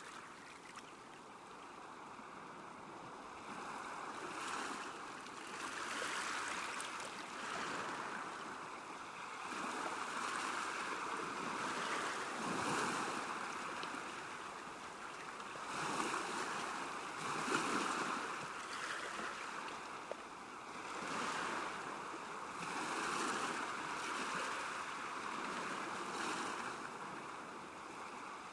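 Small waves lapping at a lakeshore, a soft splashing that swells and fades every couple of seconds.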